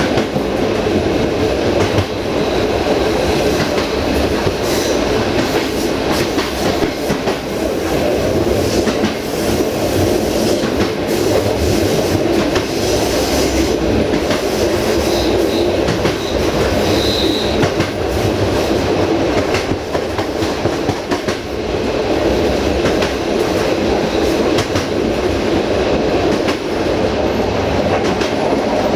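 Passenger train running steadily along the line, heard from the rear coach: a continuous rumble of wheels on rail with scattered clicks over the rail joints.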